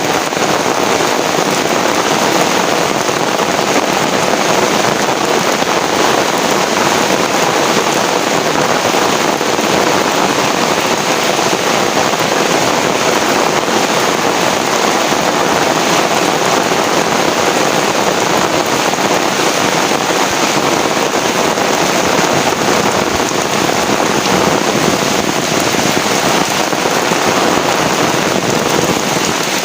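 Heavy rain falling steadily and loudly.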